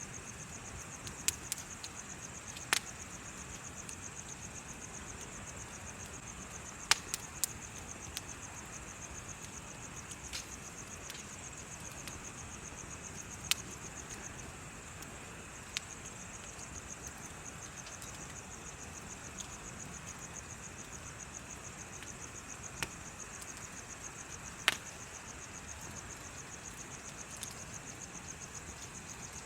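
Insects chirping in a steady, fast, high-pitched pulse, with a wood bonfire giving off sharp, irregular crackles and pops, the loudest around 7 and 25 seconds in.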